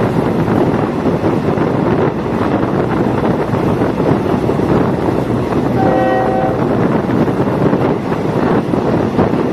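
Diesel multiple-unit railcar running along the track with steady rolling and engine noise. A short horn blast of under a second sounds about six seconds in.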